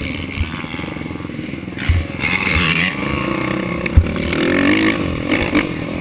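Racing ATV engine revving up and down through the throttle, with several sharp thumps.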